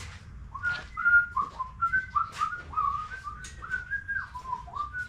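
A man whistling a tune of short stepping notes that starts about half a second in, with light clicks of hand work on the mower's deck cables and clips.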